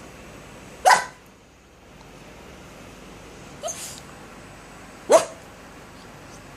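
A dog barking: two sharp single barks about four seconds apart, with a fainter, shorter one between them.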